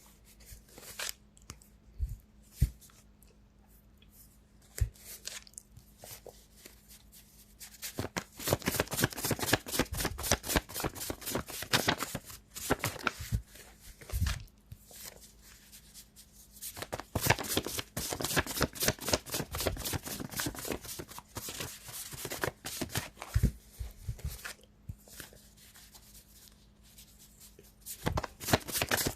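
Tarot cards being shuffled by hand: a few single taps at first, then long spells of rapid, dense card flicking.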